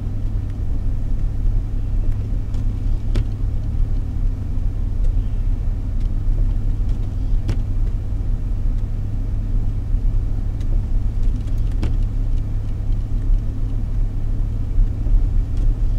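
Steady low rumble of a car's engine and tyres heard from inside the cabin while driving through a blizzard, with a few faint clicks.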